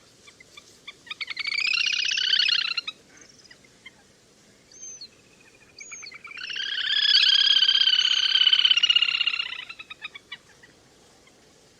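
Le le hôi (whistling duck) calling: two bouts of rapid, pulsed chattering calls, the first about a second in and lasting some two seconds, the second longer and louder, with a couple of short whistles between them. It is a flock-calling recording of the kind used to lure the birds.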